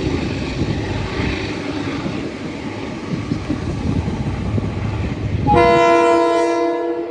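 A train running past with a steady rumble, then its horn sounding one blast of about a second and a half, several notes at once, about five and a half seconds in.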